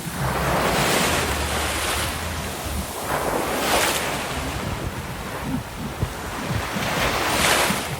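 Ocean surf washing ashore, the hiss swelling and falling away three times, with wind buffeting the microphone as a low rumble in the first couple of seconds.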